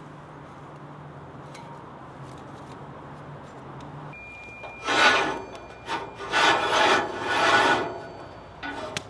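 Three or four loud, rough rasping strokes, starting about five seconds in after a quiet stretch of background, with a short one near the end.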